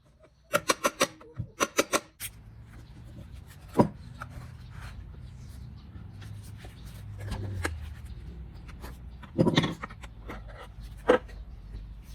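A quick run of about eight sharp clicks, then scattered knocks and rubbing over a low hum.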